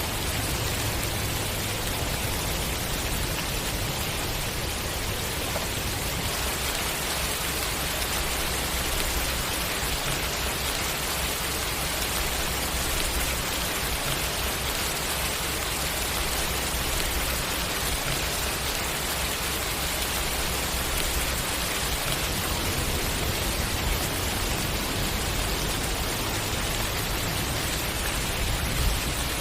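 Steady rain falling, an even hiss of rain with no breaks.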